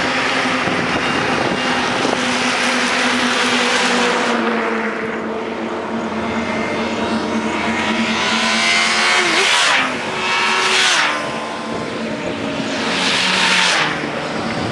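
Inline-four sport motorcycles revving hard as they pass at speed, one after another. The engine note climbs as each bike approaches, then drops off sharply as it goes by, several times over.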